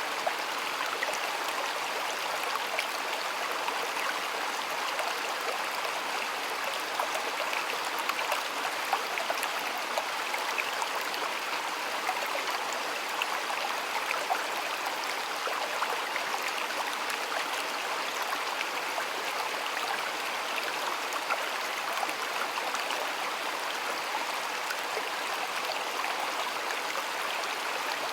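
Shallow stream of water flowing and babbling steadily, with small splashes and gurgles throughout.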